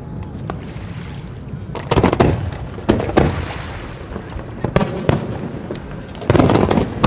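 Aerial fireworks display: big shell bursts about two, three and six and a half seconds in, a smaller one near five seconds, with scattered pops and crackles between them.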